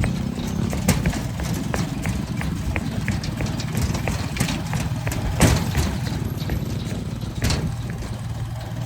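Motorcycle engine running at low speed with a steady drone, while the swinging bridge's deck knocks and clatters irregularly under the wheels, with two louder knocks about five and a half and seven and a half seconds in.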